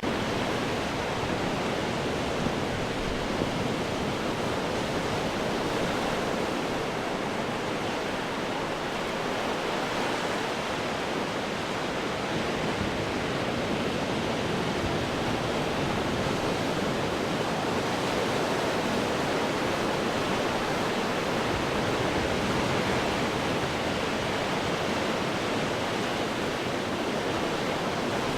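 Ocean surf washing over rocks: a continuous rush of white water with only slight rises and falls in level.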